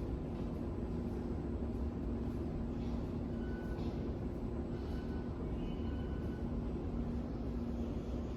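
Taipei Metro train running on the Songshan–Xindian line: a steady rumble with a constant low hum.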